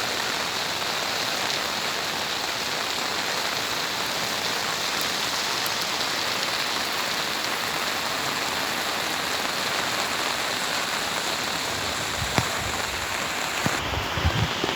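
Steady, even hiss of heavy rain and rushing floodwater, with a single sharp knock about twelve seconds in and a few low bumps near the end.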